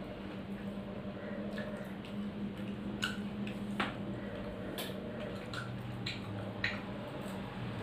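Close-up eating sounds of a person eating rice and curry by hand: wet chewing and mouth smacks, with about five short sharp clicks scattered through, over a steady low hum.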